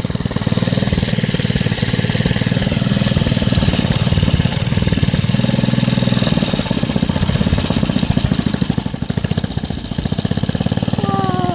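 Single-cylinder engine of a 1970 JCPenney El Tigre minibike running steadily with rapid, even firing, dipping briefly in level a couple of times near the end.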